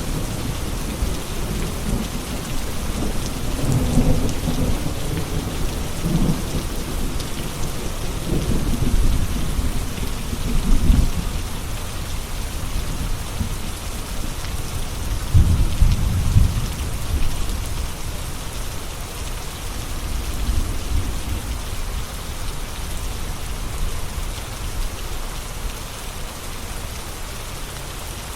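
Steady heavy rain falling, with low rumbles swelling up three times in the first half and the rain easing slightly quieter toward the end.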